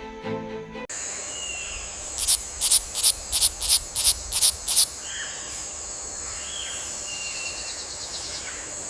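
Forest ambience: a steady high insect drone, with a run of about eight sharp, high calls at roughly three a second in the middle, and scattered short bird chirps.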